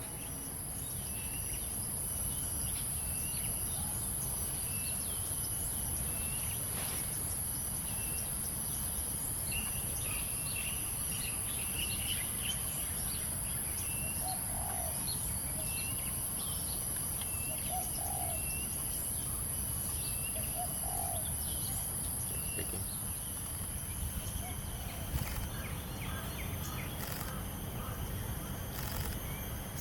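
Wild birds calling outdoors: a short chirp repeated about once a second, with a few lower calls in the middle stretch. Underneath runs a steady high-pitched drone and a low rumble of background noise.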